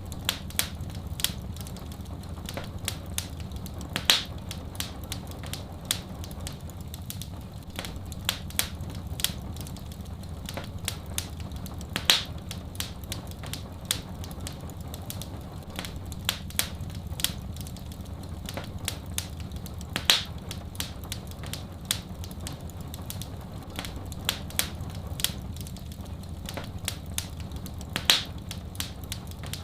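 Fireplace wood fire crackling: frequent sharp pops and snaps, the loudest about every eight seconds, over a steady low rumble.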